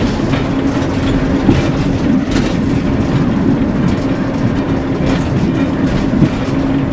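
Class 141 Pacer diesel railbus heard from inside the driver's cab while running along the line: a steady underfloor diesel engine drone over wheel and rail noise, with a few light knocks.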